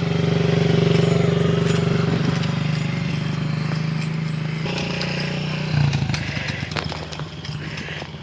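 Small dirt bike engine running at a steady speed, with a couple of brief changes in engine note, growing fainter near the end as the bike moves away.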